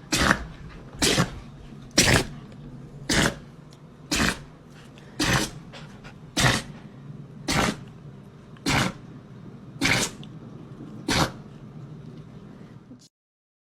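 A dog sneezing over and over: about eleven short, sharp sneezes, roughly one a second, then the sound cuts off suddenly.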